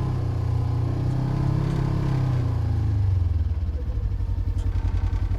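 Polaris RZR Trail side-by-side's parallel-twin engine coming off the throttle, its pitch falling over the first few seconds, then settling to a low, evenly pulsing run.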